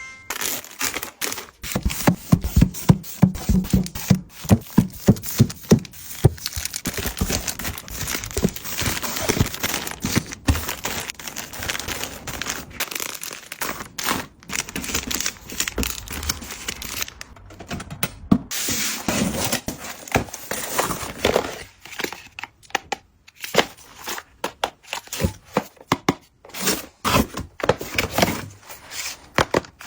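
Packaging being handled and torn open by hand: irregular crinkling, tearing and rustling with small knocks and taps.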